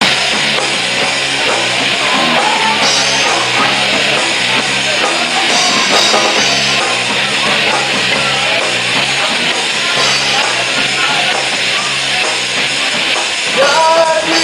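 Rock band playing loud, full-band music with guitars and drums.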